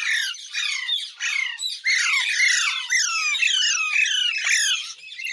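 Ringneck parakeet squawking in a fast, unbroken run of short calls that each slide downward in pitch, about three or four a second.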